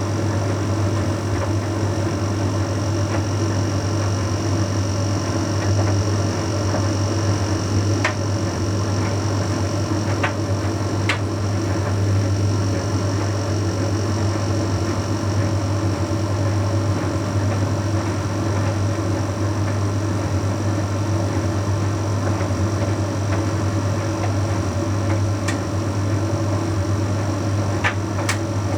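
Bosch Series 6 WQG245R9GB heat pump tumble dryer running mid-way through its Shirts cycle: a steady low hum with a few faint ticks scattered through.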